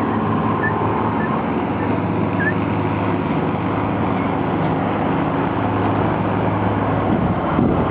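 A truck engine idling steadily, with a short change in pitch near the end.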